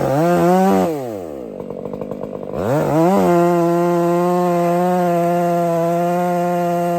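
Chainsaw engine revving up, falling back to a rough idle for a second or two, then revving again about three seconds in and held at a steady high speed.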